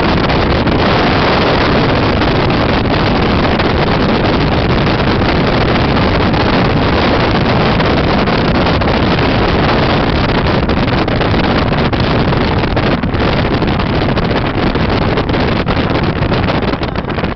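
The 22 Liberator boat's motor running steadily under way, mixed with wind on the microphone. The sound turns choppier and a little quieter near the end.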